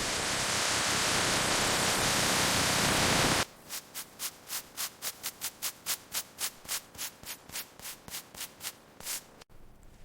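Sanding or rubbing work on car bodywork. A steady, loud hiss lasts about three and a half seconds, then changes abruptly to quick back-and-forth rubbing strokes, about four a second.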